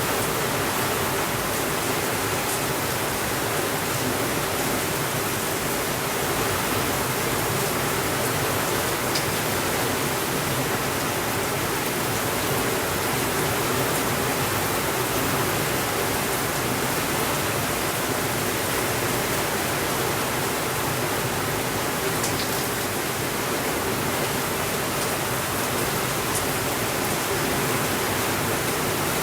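Steady, even rainfall, a dense unbroken hiss with a few faint ticks scattered through it.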